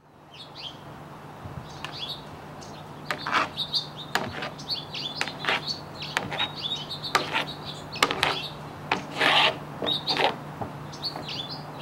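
Small birds chirping and twittering in quick, irregular calls, some louder than others, over a steady low hum.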